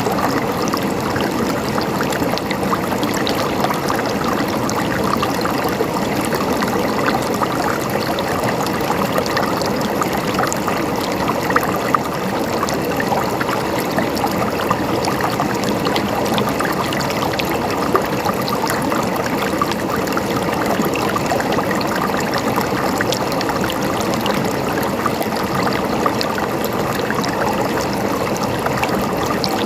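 River water flowing and splashing steadily over rocks, a constant rushing babble with small splashes throughout.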